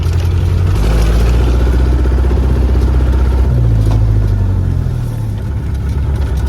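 Jeep engine running under load on a rough off-road track, its note rising about a second in and again midway.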